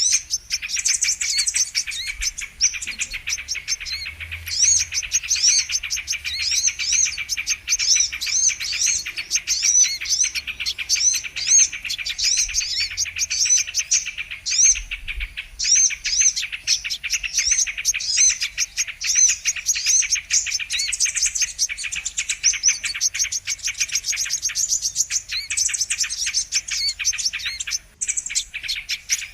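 Brown-throated sunbird (kolibri kelapa) calls played as a lure track: a rapid, unbroken stream of high chirps and trills, many notes a second, dipping briefly twice before resuming.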